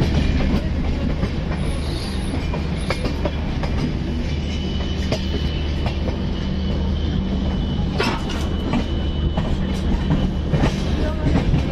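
Passenger train running, heard from aboard at an open coach door: a steady low rumble with irregular wheel clacks over rail joints and points. A faint high ringing tone holds for a few seconds midway.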